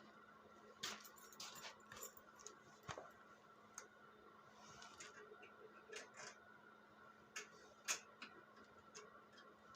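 Faint, irregular clicks and light taps of small hard objects being handled, the sharpest about a second in and near the end, over a steady faint hum.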